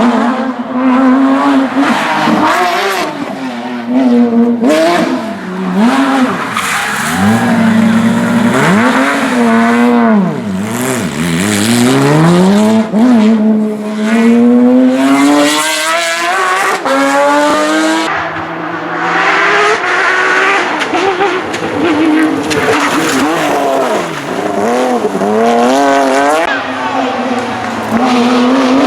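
Porsche 911 GT3 flat-six engine being driven hard at a rally, revving up through the gears with the pitch climbing again and again, then dropping sharply when the driver lifts and brakes.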